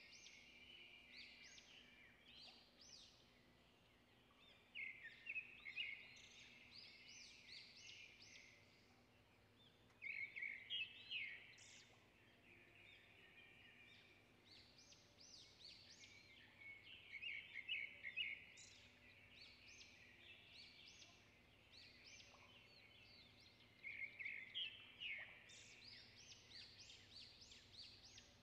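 Songbird chirping: four bursts of quick, high chirps a few seconds apart, with quieter chirps between them.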